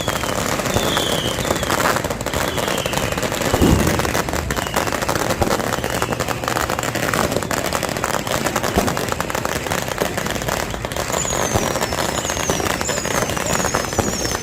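Ground fireworks crackling continuously, a dense rapid patter of small pops with a heavier bang about three and a half seconds in. Short falling whistles repeat over the crackle, higher-pitched near the end.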